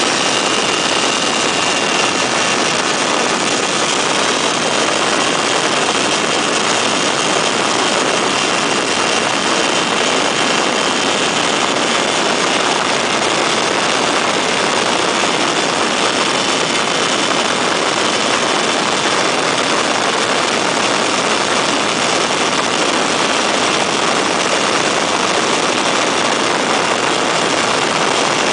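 Weedhopper ultralight aircraft's engine and propeller running steadily at a constant, unchanging power.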